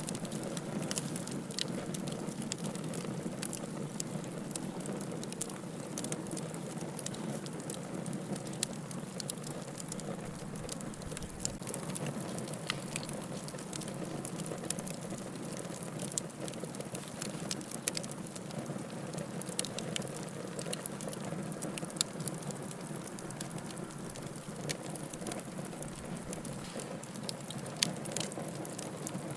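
Firewood burning in a fireplace, crackling continuously: many small sharp pops and snaps over a soft, steady rush of flame, with a couple of louder pops near the end.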